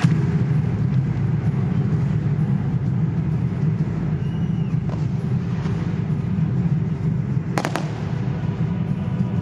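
Fireworks going off in a dense, continuous rumble, with a few sharp cracks about three-quarters of the way through.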